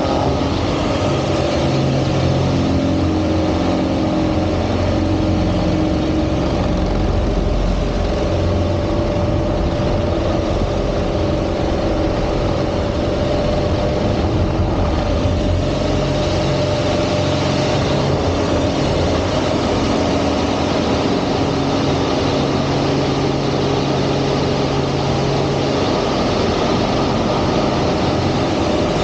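Aerobatic airplane's piston engine and propeller running hard, its pitch stepping up and down every several seconds as power and airspeed change through manoeuvres, over a steady rushing noise.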